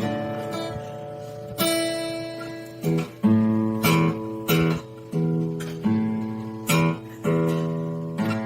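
Acoustic guitar strumming chords: one long ringing chord, then a steady strum about every two-thirds of a second.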